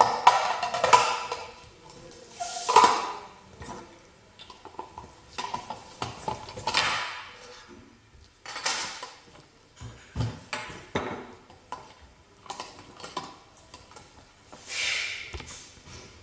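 Metal parts of a manual meat grinder clinking, knocking and scraping against each other as they are handled and fitted together, in an irregular run of clatters.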